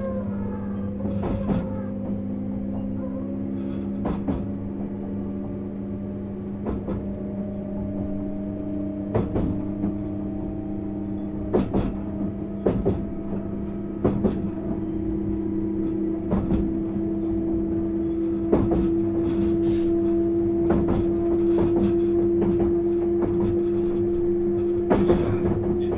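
Running sound inside a JR East 651 series electric multiple unit as it gathers speed: the traction motor whine rises slowly in pitch over a steady hum, and the wheels knock over rail joints every second or two.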